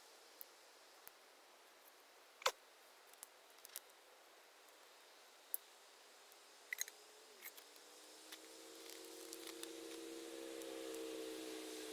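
Small twig campfire crackling: scattered sharp pops and snaps, the loudest about two and a half seconds in. In the second half a steady low hum of several tones comes in and slowly grows louder.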